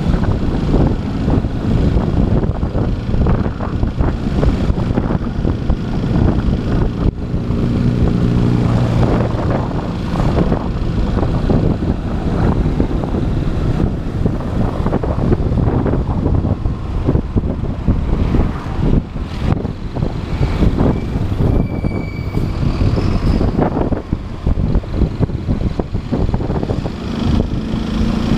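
Motorcycle riding in city traffic: the engine running under a heavy, fluctuating rumble of wind on the helmet or action-camera microphone, with a steady engine tone standing out briefly about eight seconds in.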